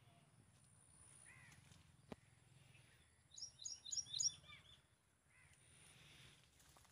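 Small birds calling: a quick run of four sharp, high chirps about three and a half seconds in, with fainter single chirps before and after, over a faint steady low hum.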